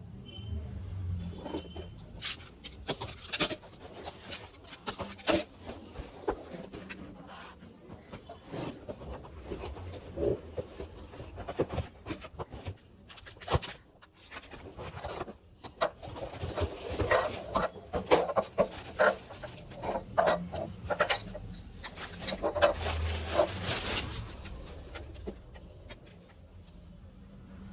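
Irregular clicks, knocks and rubbing of something being handled, busiest in the second half.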